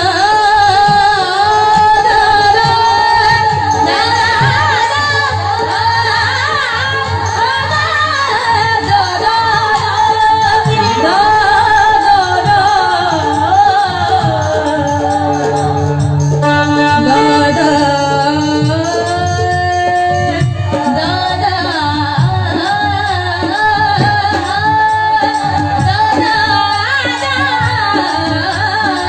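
Indian devotional singing: a voice sings long, gliding melodic lines without clear words over instrumental accompaniment with a steady held drone.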